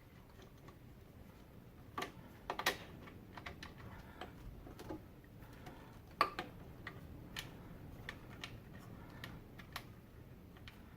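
Irregular light metallic clicks and taps of a T40 Torx driver and mounting screws being handled and fitted while the DISA valve is refastened to the intake, with a cluster of louder clicks about two seconds in and a sharp one about six seconds in.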